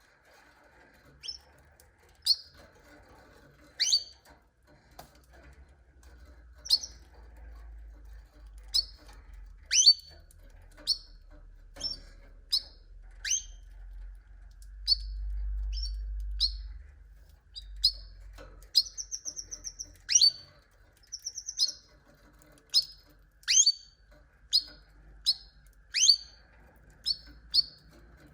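Domestic canaries calling: short separate chirps that sweep downward, one or two a second, with a couple of brief buzzy trills. A faint low rumble swells midway.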